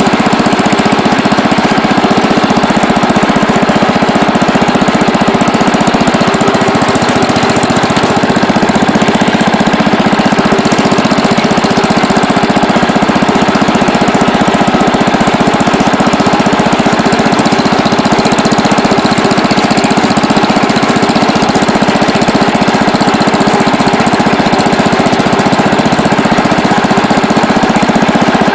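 Allis-Chalmers Big Ten garden tractor's small engine running steadily and evenly, close up, with no change in speed; it runs well after a carburetor cleaning and governor adjustment.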